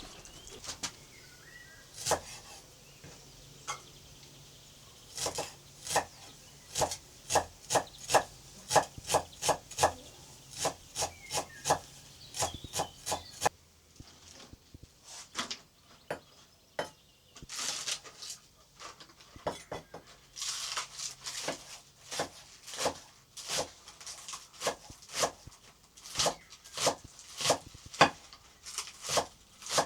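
Kitchen knife chopping on a wooden cutting board: runs of sharp, evenly spaced strokes, a little under two a second, broken by short pauses.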